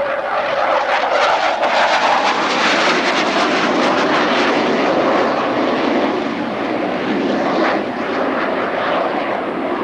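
Jet engine noise from Blue Angels F/A-18 Hornets flying past: a loud, rushing roar that builds in the first second and then slowly eases off.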